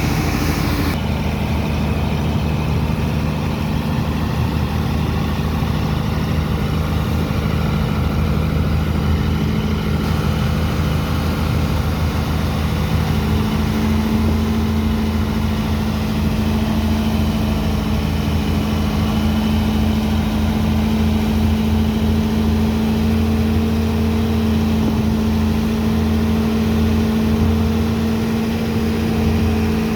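Engine of a sand-unloading dredger pump machine running steadily under load. Its pitch rises slightly partway through.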